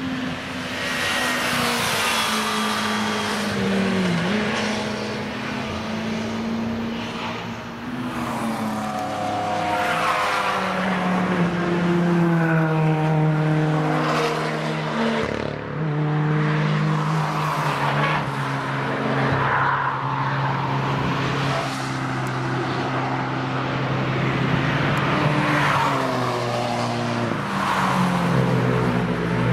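Several cars passing one after another at speed on a race track, their engines revving hard, with engine notes rising and falling and overlapping as one car follows another.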